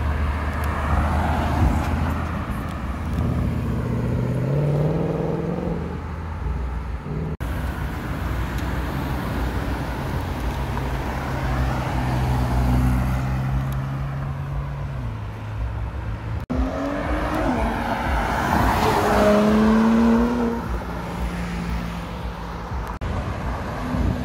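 Sports car engines in street traffic, in three short clips with abrupt cuts between them: engine notes climbing in pitch as cars rev and accelerate, a steady engine note in the middle clip, and the loudest rising acceleration near the end.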